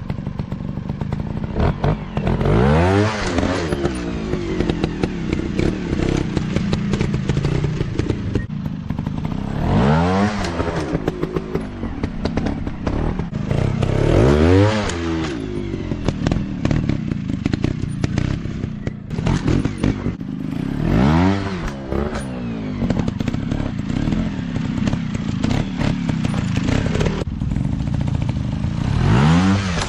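Off-road dirt-bike engines running continuously, rising in pitch and dropping back about five times as the throttle is opened and closed, with scattered clattering.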